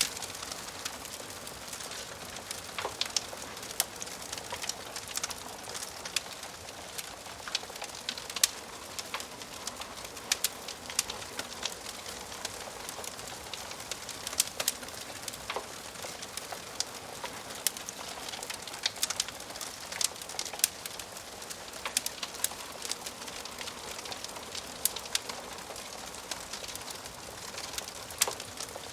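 Wood fire burning in a fireplace: a steady hiss with frequent irregular crackles and sharp pops from the burning logs.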